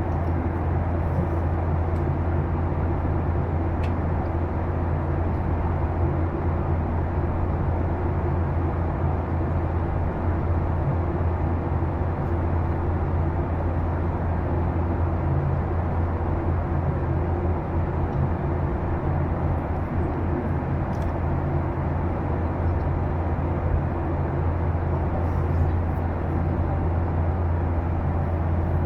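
Steady drone of a Boeing 737-800's engines and airflow heard inside the passenger cabin, with a strong low hum and an even level throughout.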